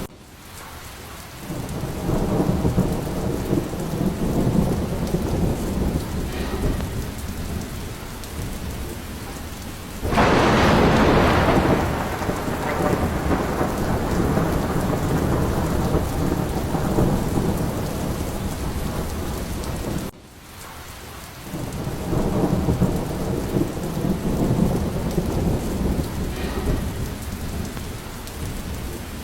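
Steady rain with rolling thunder. About ten seconds in, a sudden loud thunderclap breaks and slowly fades into rumbling. The sound drops off abruptly twice, at the very start and about twenty seconds in, then builds back up into rumbling thunder.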